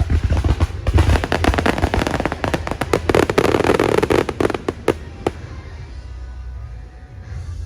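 Fireworks display: a dense, rapid run of bangs and crackling bursts with a low rumble for about five seconds, then dying away.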